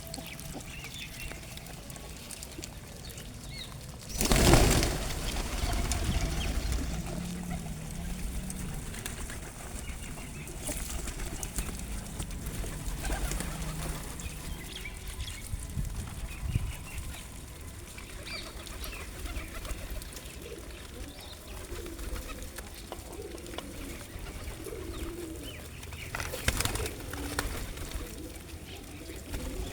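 Pigeons cooing, with two loud bursts of wing flapping as birds take off or land, one about four seconds in and another near the end.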